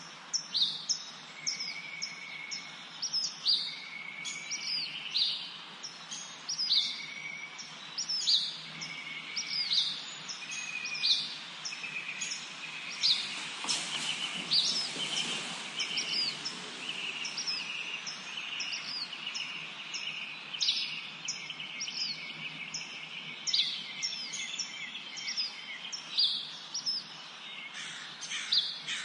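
Several songbirds singing in a spring forest: one repeats a short, high, downslurred chirp about once a second, another gives a lower whistled note at a slower beat early on, and a trill joins later. A brief rush of noise swells and fades about halfway through.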